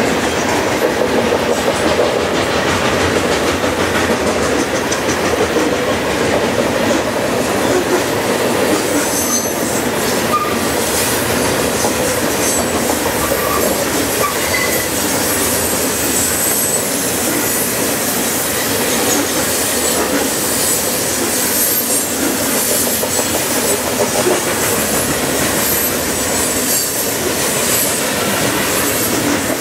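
Covered hopper cars of a freight train rolling past at a steady pace: a continuous rumble and clatter of steel wheels on the rails, with faint repeated clicks over the rail joints.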